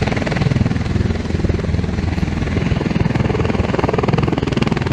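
MV-22B Osprey's proprotors running steadily near the ground, a loud, rapid, continuous chop.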